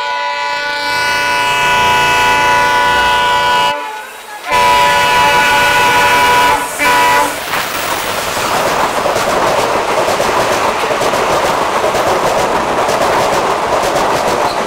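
Multi-tone horn of a WDP4D diesel locomotive as it approaches. There is one long blast, a break about four seconds in, a second long blast and then a short toot at about seven seconds. After that the locomotive and its passenger coaches pass close by on the next track: a loud, steady rush of wheels on rails with rapid clattering.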